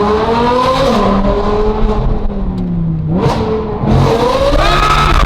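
High-performance car engine pulling hard under acceleration. Its pitch climbs, eases off, breaks briefly about three seconds in as at a gear change, then climbs again.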